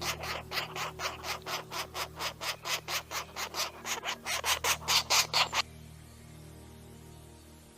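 Woodpecker pecking and chiseling into wood: a rapid run of scraping strokes about five a second, growing louder before stopping suddenly about five and a half seconds in. Soft background music runs underneath.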